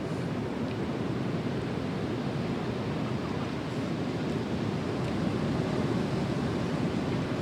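Ocean surf breaking and washing on a sandy beach, a steady rushing that grows a little louder about five seconds in, with wind on the microphone. The swell is raised by an approaching typhoon.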